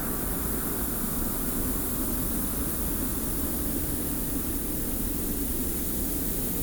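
Steady wind with the fine hiss of blowing sand, an even rushing noise with no gusts or breaks.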